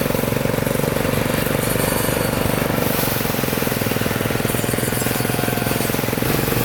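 A small engine running steadily at an even speed, with a fast, regular firing pulse.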